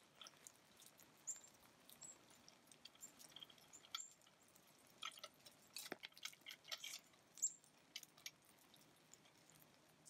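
Faint, irregular very high short chirps of small birds, scattered a second or more apart, among soft scattered clicks.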